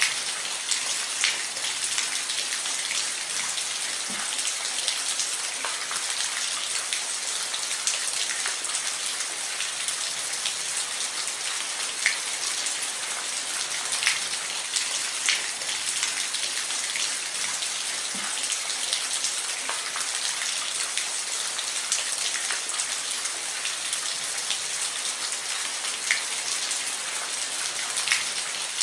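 Steady rain falling on a roof: a constant high hiss with individual drops ticking sharply here and there.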